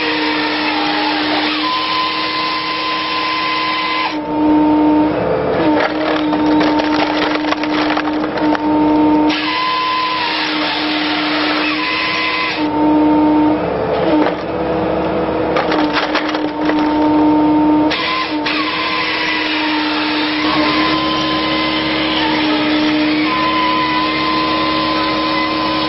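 Excavator-mounted firewood processor head at work: a steady hydraulic and engine whine that dips and rises in pitch now and then, with wood cracking and splintering as logs are sawn and split.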